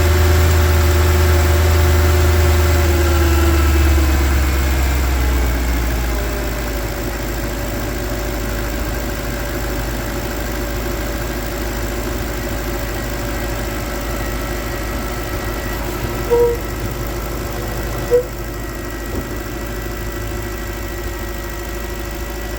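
Volvo XC90's 4.4-litre V8 idling after a cold start, its fast idle dropping to a lower, steady idle a few seconds in. Two short squeaks come near the end, a noise the owner puts down to the hood's gas strut.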